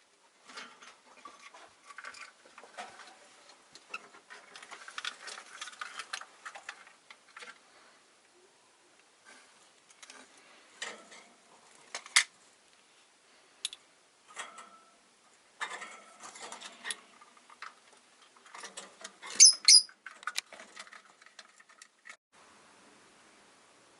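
Rosy-faced lovebirds moving about their cage: irregular clicking, scratching and rustling of beaks and feet, with two short high chirps about three-quarters of the way through.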